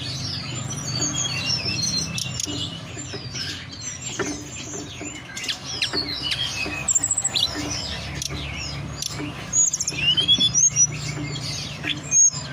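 Hill blue flycatcher (tledekan gunung) singing: a dense run of quick, high whistled chirps and slurred notes over a steady low hum, busiest near the end.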